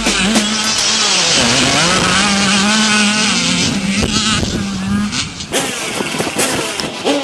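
Motocross bike engines revving, their pitch rising and falling as the riders work the throttle and gears. The sound shifts abruptly about five and a half seconds in.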